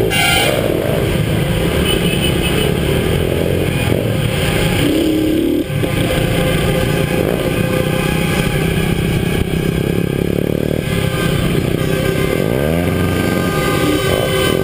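Motorcycle engines running loud and revving, the pitch rising and falling as the throttle is worked, with one clear rev swell near the end.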